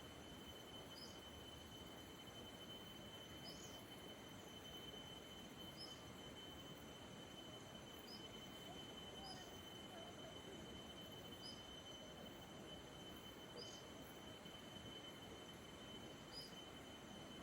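Faint rural outdoor ambience: a steady hiss with a thin, steady high whine, and short high chirps about every two seconds.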